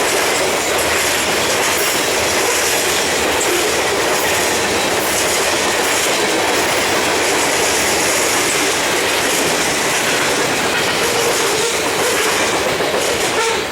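Railroad cars rolling steadily past at trackside: a loud, continuous rush of steel wheels on rail.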